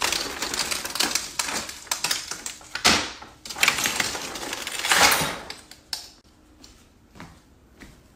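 A flat wooden panel being handled: a dense scraping and rattling as it is lifted and turned over on a wooden floor, with louder scrapes about three and five seconds in, dying away after about six seconds.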